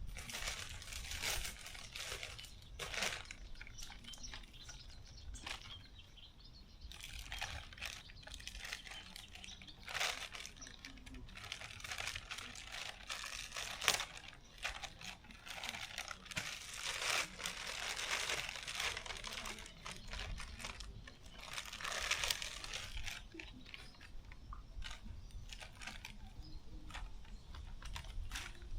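Irregular crinkling and rustling of material being handled, with scattered clicks and knocks, over a steady low rumble.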